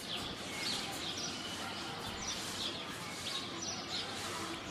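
Small birds chirping repeatedly, short high notes that slide downward every half second or so, over a steady outdoor background hiss.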